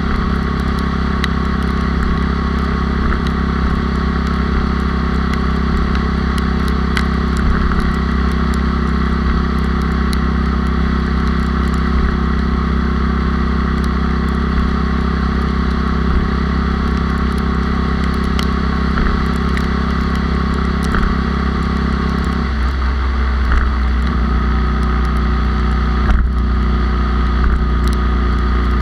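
Bored-up 97cc Honda Super Cub's single-cylinder four-stroke engine running steadily under way, heard from on board the bike. About two-thirds of the way through, the engine note drops and changes.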